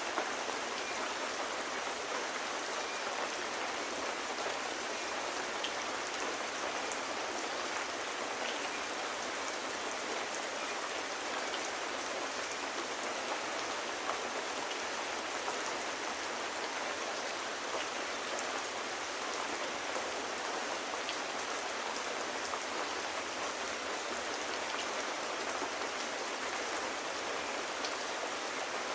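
Steady rain: an even hiss with scattered small ticks of drops hitting a surface.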